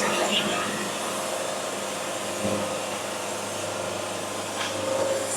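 Band sawmill cutting the top slab off a cherry log: a steady rushing whir of the blade in the wood, with a low hum joining about halfway through.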